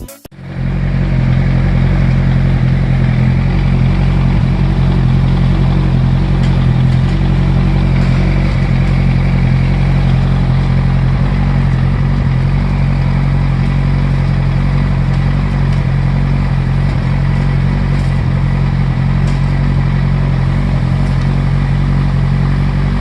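Yamaha YZF-R1's inline-four engine running at a steady idle, its pitch and loudness even throughout.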